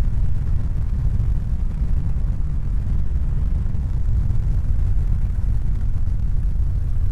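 A steady, loud, low rumbling noise with no clear pitch or rhythm.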